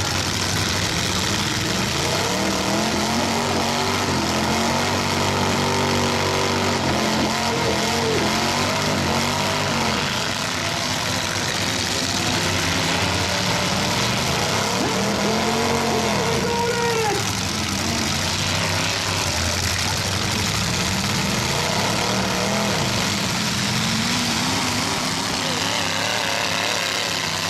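Demolition derby trucks' engines revving, again and again, each rev rising and falling in pitch, over a steady wash of noise.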